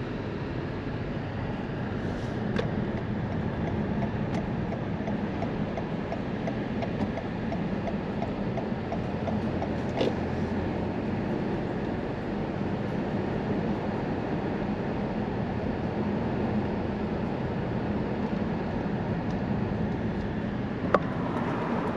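Steady road and tyre noise with engine hum of a car driving slowly, heard from inside the cabin, with a few light knocks, the clearest about ten seconds in and one near the end.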